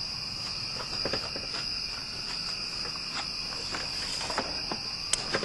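Steady high-pitched chirring of crickets or similar insects, with a few light clicks and taps scattered through it and a sharper click near the end.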